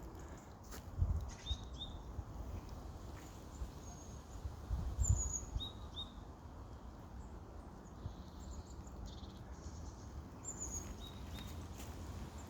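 Wild birds giving short, high chirps scattered here and there, each sliding down in pitch, over a low outdoor rumble with a couple of dull thumps.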